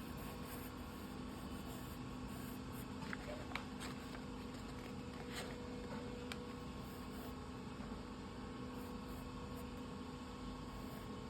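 Steady electrical hum and fan-like hiss of room tone, with a few faint clicks a few seconds in.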